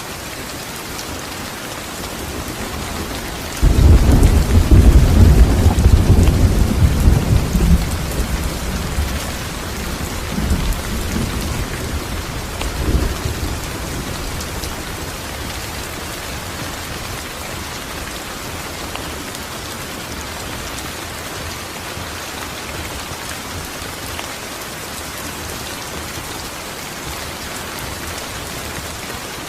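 Steady heavy rain falling, with a clap of thunder breaking in suddenly about four seconds in and rolling away over several seconds, and a smaller rumble a few seconds later.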